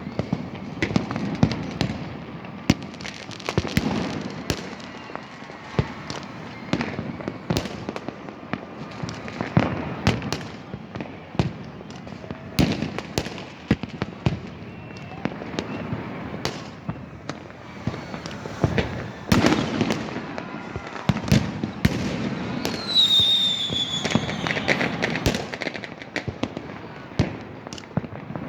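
Fireworks going off continuously: many sharp bangs at irregular intervals, some close together, over a steady rumble of more distant bursts. About three-quarters of the way through, a brief whistle slides slightly downward in pitch.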